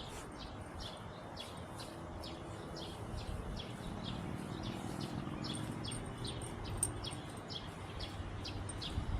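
A bird chirping over and over, short high chirps about three a second, with a faint low rumble underneath that swells in the middle.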